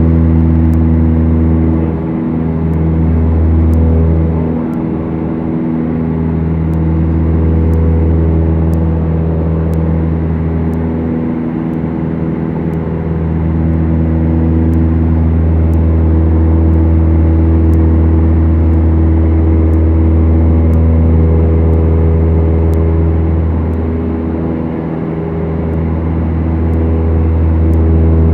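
Steady drone of a Beechcraft Duchess's twin four-cylinder piston engines and propellers heard in the cabin, a deep even hum with a stack of tones above it. The level dips briefly a few times, about two, five, twelve and twenty-five seconds in.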